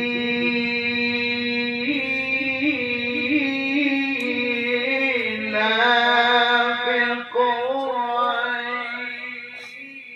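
A male Quran reciter's voice in melodic tilawah style, holding one long drawn-out note with ornamented turns and wavering pitch, fading near the end.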